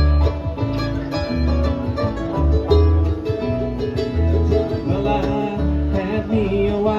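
Bluegrass string band playing an instrumental passage: picked guitar and banjo notes over a steady, even bass beat.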